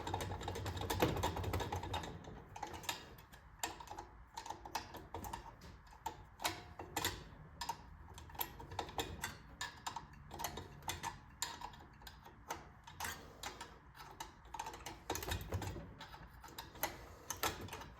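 Sharp, irregular metallic clicking from hand tools, likely a ratchet wrench, working bolts loose on a rusty Clinton 410 small engine during teardown, with a low handling rumble near the start and again about 15 seconds in.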